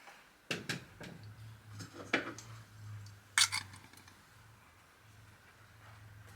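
A few sharp metallic clicks and knocks of tools being handled, the loudest about three and a half seconds in, over a low steady hum that starts about a second in.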